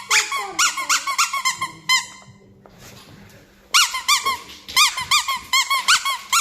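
Squeaky toy squeaked rapidly over and over, about five or six squeaks a second, in two runs with a pause of about a second and a half between them.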